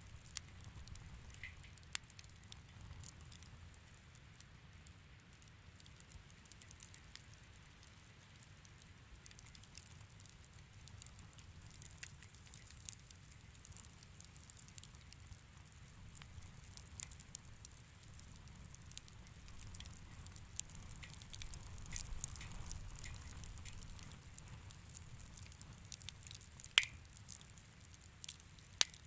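Fireplace fire crackling softly: scattered sharp pops and snaps over a low steady rumble, with one louder pop near the end.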